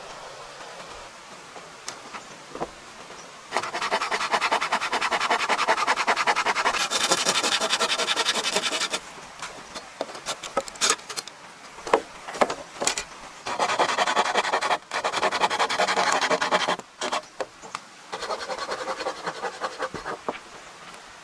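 A tool working wood in three long spells of dense, rapid grating, the first and longest lasting about five seconds, with sharp clicks and knocks in the pauses between.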